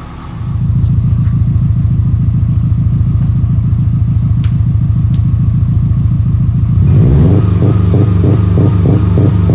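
Subaru WRX flat-four engine running through a freshly installed catback exhaust, the low exhaust note jumping up in level about half a second in and holding steady. About seven seconds in it gets a little louder and takes on a pulsing beat of about three a second.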